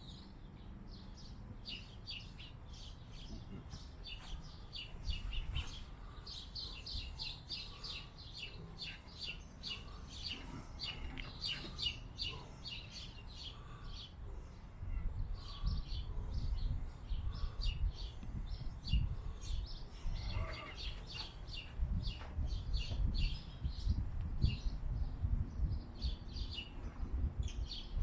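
Small birds chirping busily, many short high chirps overlapping throughout. A low rumble joins about halfway through.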